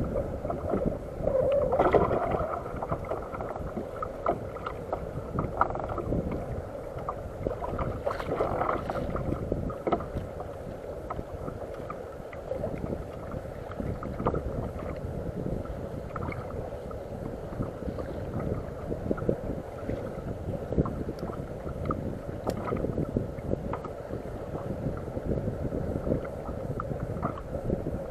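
Water sloshing and lapping against a kayak's hull, with wind noise on the microphone and scattered small knocks.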